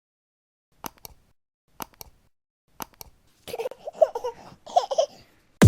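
Three sharp double clicks about a second apart, followed by about two seconds of a baby babbling.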